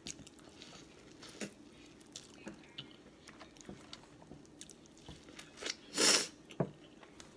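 Close-miked mukbang mouth sounds: a person chewing a boiled egg from a seafood boil, with small wet clicks and smacks. About six seconds in there is one short, louder rushing noise.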